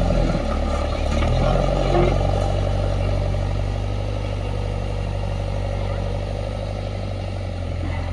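Heavy diesel machinery engine running, working harder and louder for the first two seconds, then settling to a steady note.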